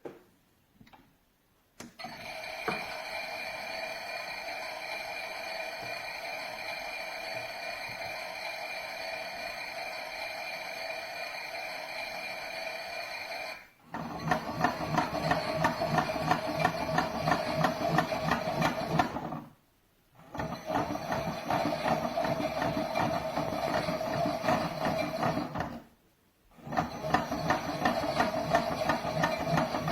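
Theo Klein Miele toy washing machine running a wash programme. A steady electric whir comes first, then a fast, rattling whir in three spells with short pauses between them.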